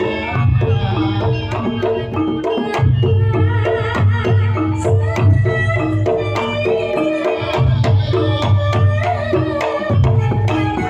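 Campursari music: kendang hand-drum strokes over held, stepping melody notes and a heavy bass line.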